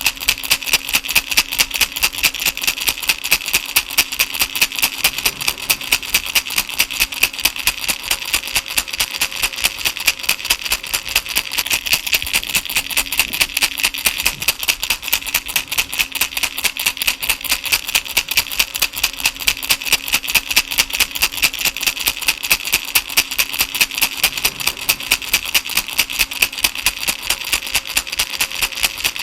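Baby rattle shaken steadily in an even rhythm, about three shakes a second, each a bright rattling burst.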